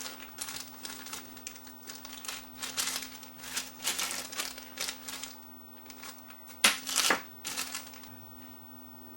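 Small-parts handling at a workbench: rustling and light clicks as a replacement capacitor and hand tools are worked into an old radio chassis, with two sharp clicks about seven seconds in.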